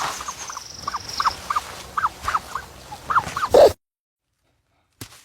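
Ostrich chicks peeping: a run of short, high chirps, several a second. The sound ends with a louder call about three and a half seconds in and then cuts off suddenly.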